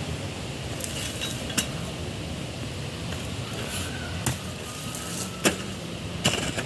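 A jembe (hand hoe) striking hard, dry soil: four sharp blows at uneven intervals, over a steady low rumble.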